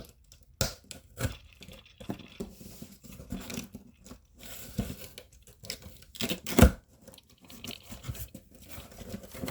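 Cardboard shipping carton being opened by hand: packing tape slit and torn and the flaps and packing rustled, in irregular scrapes and knocks with one sharper knock about two-thirds of the way through.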